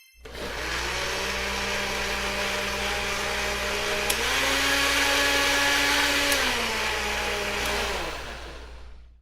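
Electric kitchen blender running, its motor stepping up to a higher speed about four seconds in and dropping back about two seconds later, then winding down near the end.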